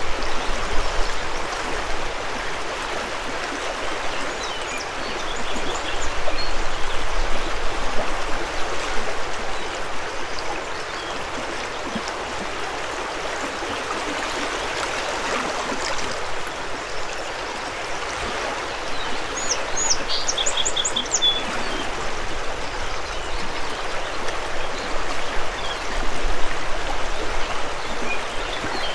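A mountain river rushing steadily, with a small bird chirping quickly several times about two-thirds of the way through and a few fainter chirps elsewhere.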